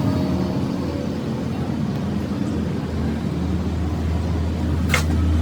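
An engine running steadily with a low, even drone, which strengthens in the second half; a single sharp click sounds near the end.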